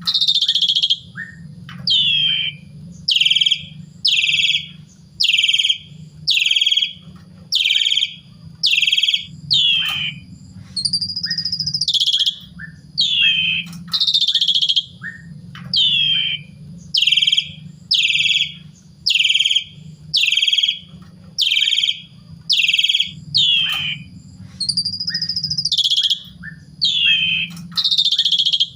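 Asian pied starling (jalak suren) in full song, calling loudly over and over at about one harsh, falling note a second. Twice it gives a longer whistle that rises and falls. A steady low hum runs underneath.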